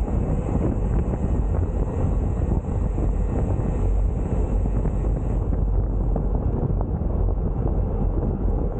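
Wind rushing over the camera microphone of a rider on a bicycle climb: a steady, dense low rumble. A thin high hiss drops away a little past halfway.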